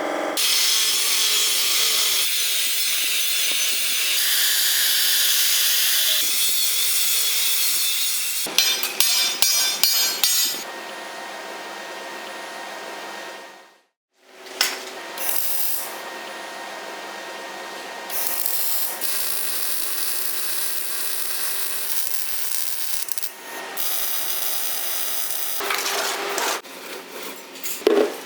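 Knife-making workshop tools at work in a series of cut-together clips: long stretches of steady sawing or grinding noise, a quick run of sharp strikes about a third of the way in, and a cluster of knocks near the end. The sound cuts out abruptly around the middle.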